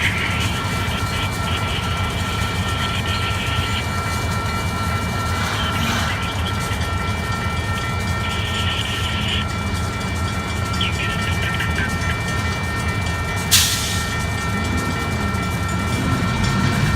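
Union Pacific GP38-2 and GP15-1 diesel-electric switcher locomotives running at the crossing, their EMD diesel engines rising and falling in pitch near the end, with a steady high ringing from the crossing signal bell. A single sharp click sounds about thirteen and a half seconds in.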